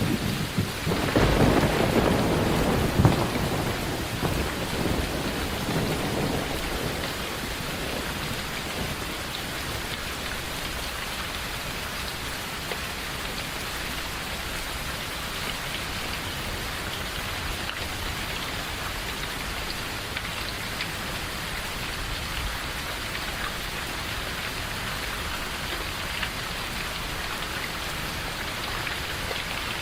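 Steady rain with a rolling rumble of thunder in the first few seconds, loudest around three seconds in and dying away by about seven seconds, after which only the even rain continues.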